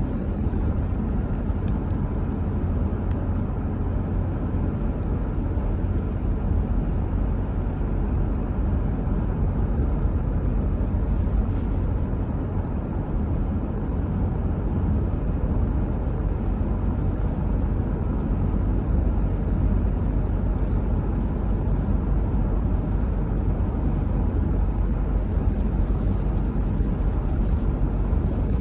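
Car driving along a road: a steady low rumble of tyre and engine noise with no changes.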